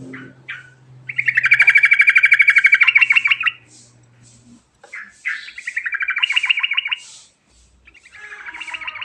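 Yellow-vented bulbul (trucukan) singing three fast, rattling trilled phrases, the first and longest lasting about two and a half seconds, with short chirps between them.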